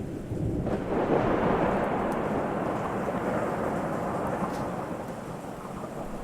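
Thunder: a low rumble swells into a loud roll about a second in, then slowly dies away.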